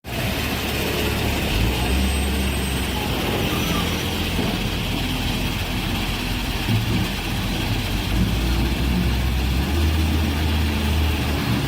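Heavy earthmoving machine's diesel engine running steadily, its low drone swelling a little now and then.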